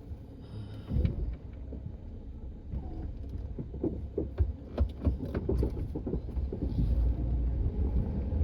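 A vehicle engine rumbles and grows steadily louder, with a burst of knocks and clunks in the middle.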